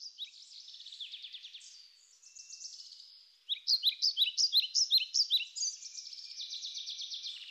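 Songbirds singing: fast trills, then about three and a half seconds in, a run of louder chirps that sweep quickly in pitch.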